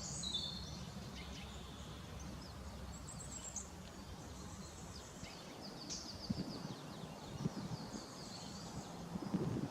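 Small birds chirping and trilling over a low steady outdoor rumble. From about six seconds in, soft low thumps come in, growing more frequent and loudest near the end.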